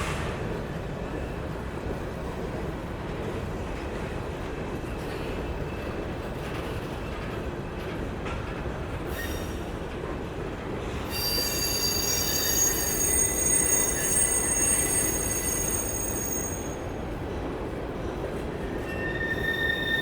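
Train passing on the tracks, its wheels on the rails making a steady rumble. About eleven seconds in, high-pitched wheel squeal sets in for several seconds, and it comes back briefly near the end.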